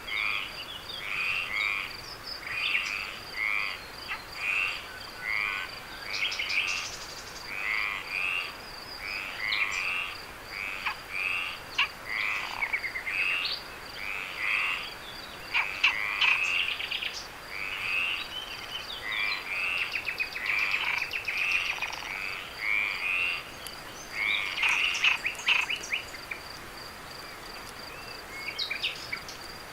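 Frogs calling in short repeated notes, about one call a second, over a steady high-pitched insect trill; the frog calls stop a few seconds before the end, leaving the trill.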